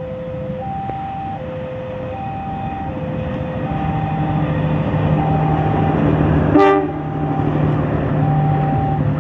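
An alternating two-tone warning alarm sounds steadily, high-low-high-low, while the low running of an approaching KAI CC201 diesel locomotive builds up. About six and a half seconds in, the locomotive gives one short horn toot.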